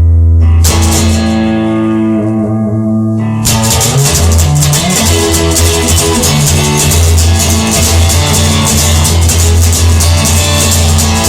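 Rock music, instrumental: sustained guitar and bass chords for the first few seconds, then the full band comes in with drums and strummed guitar.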